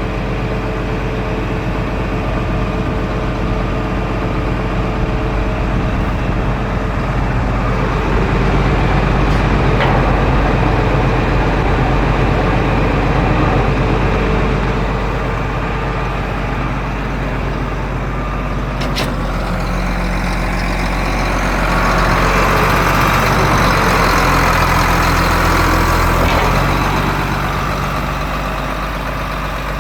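1976 John Deere 8630 four-wheel-drive tractor's turbocharged six-cylinder diesel engine running steadily. It grows louder twice, about a third of the way in and again near the end, with a single sharp click around two-thirds through.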